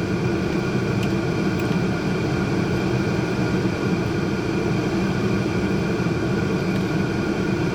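A steady, unbroken low mechanical drone with no change in level.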